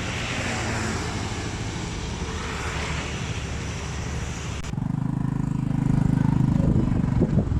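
Steady background noise with a motor vehicle running; about two-thirds in, a cut brings a louder, low, steady hum.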